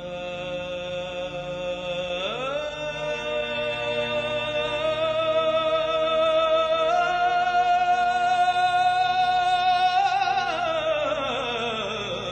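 Background music: a singer holds one long, wavering note that steps up about two seconds in, swells, and then slides down near the end, over a steady low drone.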